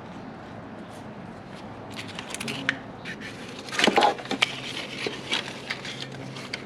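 Metal clunks, knocks and scrapes as a 1996 Toyota Tacoma's transmission is worked loose and slid back off the engine, free of the clutch. The knocks start about two seconds in, with the sharpest cluster about four seconds in.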